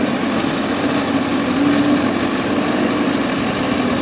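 Diesel engine of a heavy farm or construction machine running steadily at an even, constant pitch.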